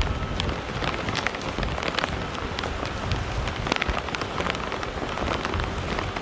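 Rain falling on flooded pavement and standing water, a steady patter with many sharp drips and splashes, over a low rumble.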